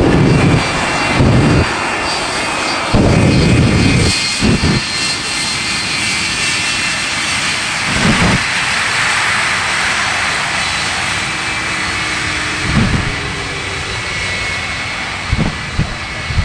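Propeller aerobatic planes and the Shockwave jet truck's jet engines running together in a loud, steady mix, with several short low thumps, the loudest about three seconds in.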